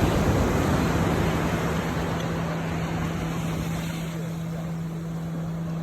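A steady low motor hum under a rushing noise, the rush easing off a little after about four seconds.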